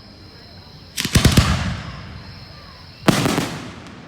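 Aerial fireworks going off: a quick cluster of crackling bangs about a second in, then a single heavy bang about two seconds later. Each one echoes away over about half a second.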